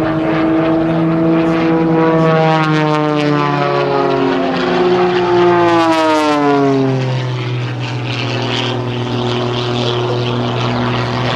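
Two aerobatic propeller planes, an Extra 300S and an MX2, flying past in formation. Their engine and propeller drone is loudest about six seconds in, where its pitch drops sharply as they pass, then settles into a steady lower drone.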